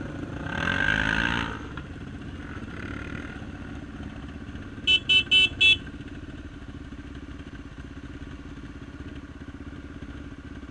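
Motorcycle engine running steadily, briefly louder about a second in. About five seconds in, a horn sounds four short toots in quick succession.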